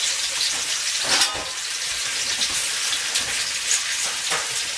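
Chopped onion sizzling in hot oil in a cast iron electric wok, with a clatter about a second in.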